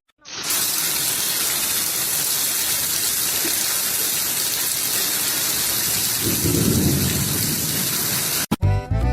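Heavy rain falling steadily, with a low rumble of thunder swelling up past the middle. It cuts off suddenly near the end, where music begins.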